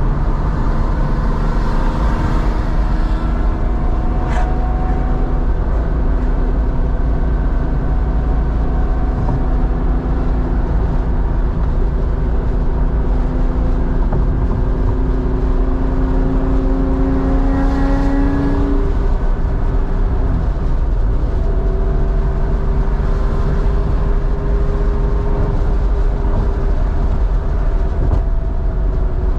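1987 Porsche 911's 3.4-litre air-cooled flat-six running through a SCART two-in, one-out muffler on the move, its note climbing slowly in pitch until about 18 seconds in, then dropping and holding steady, over a constant low rumble.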